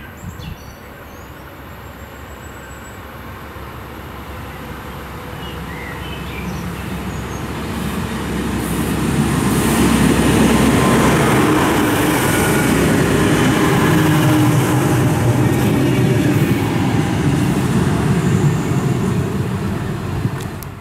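DB class 612 diesel multiple unit passing by: the run of its diesel engines and the rumble of its wheels on the rails build up steadily, are loudest from about nine seconds in as it goes past, and fall away near the end. A few bird chirps near the start.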